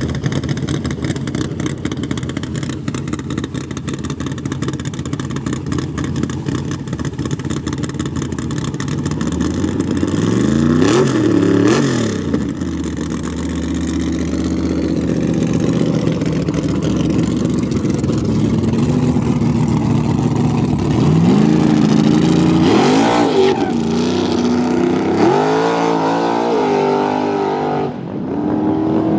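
Drag race car engines: a rough, steady running sound, then revving up and down twice in quick succession. Near the end the pitch climbs repeatedly in a series of rising sweeps, as a car accelerates hard.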